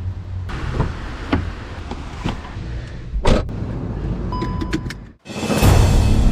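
Steady low vehicle rumble with several short knocks and clicks, the loudest about three seconds in, and a brief electronic beep. It breaks off abruptly and is followed by a loud rushing noise.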